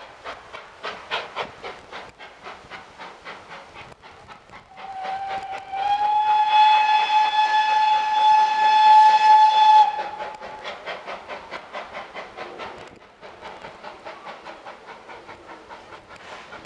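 Steam locomotive working with a rapid, even beat, sounding its whistle in one long blast of about five seconds from about five seconds in; the whistle rises slightly in pitch as it opens, then holds steady.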